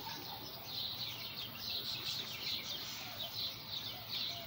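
Birds chirping, a high call repeated about twice a second.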